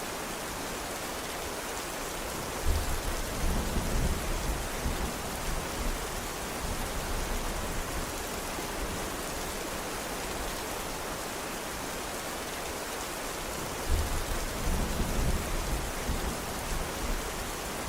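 Steady rain, an even hiss. Two low rumbles break in suddenly, about three seconds in and again about fourteen seconds in, each lasting a few seconds.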